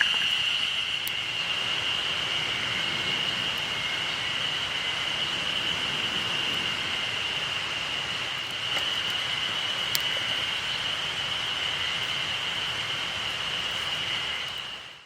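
A steady, unbroken high-pitched insect drone over a background hiss, with a couple of faint sharp crackles; it fades out at the very end.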